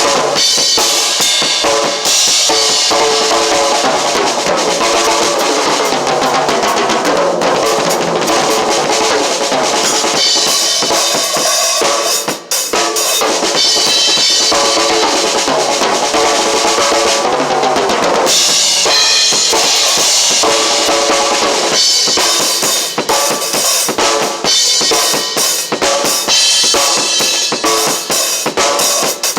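Drum kit being played continuously, with bass drum and snare hits, and a short break about halfway through.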